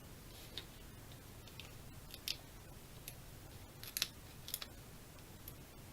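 A few short, light clicks and crinkles of paper-crafting materials being handled, spread irregularly over several seconds, the loudest pair about four seconds in.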